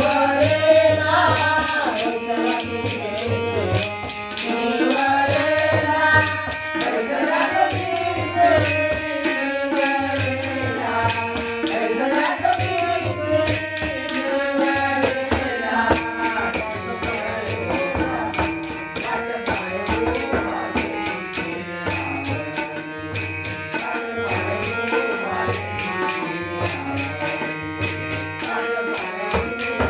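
Marathi devotional abhang being sung over a steady drum and percussion beat. The melodic voice line is strongest in the first half, and the accompaniment carries on alone more toward the end.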